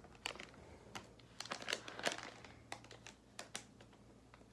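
Plastic snack wrapper crinkling in short, irregular crackles as it is handled and opened at its easy-open tear.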